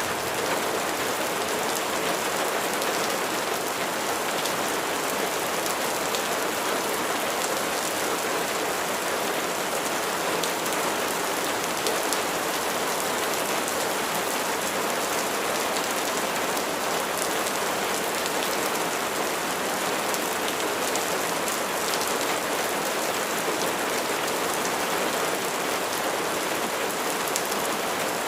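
Steady rain falling, an even hiss of drops on a surface with faint scattered ticks of individual drops.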